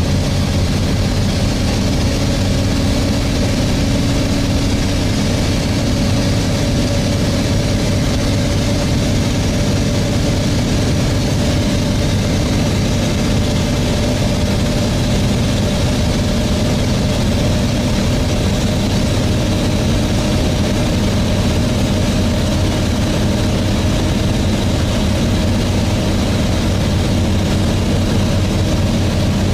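Volvo B7TL bus's six-cylinder diesel engine running steadily with its cooling fan, heard from inside the bus, with a steady whine over the engine note.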